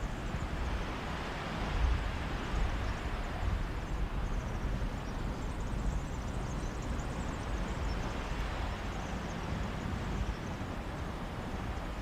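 Mediterranean sea waves washing onto a beach: a steady hiss of surf that swells and eases, with wind gusting against the microphone in low rumbles.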